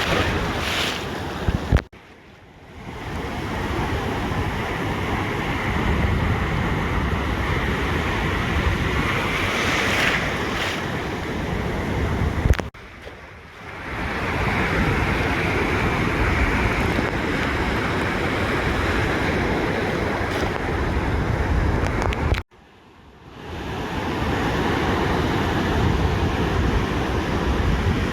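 Ocean surf washing onto a beach: a steady, dense rush of water noise with wind on the microphone. About every ten seconds, three times in all, the sound cuts out suddenly after a click and then swells back over a second or so.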